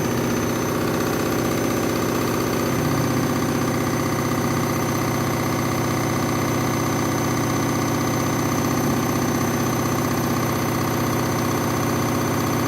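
Washing machine spinning a load of towels that is badly out of balance: a loud, steady running noise of motor and drum with the machine shaking, its low part growing stronger a few seconds in.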